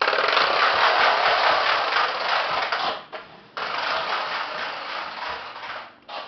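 Charlie's loud toy truck running with a fast, dense rattling buzz. It starts sharply, stops for about half a second after three seconds, then runs again for about two and a half seconds.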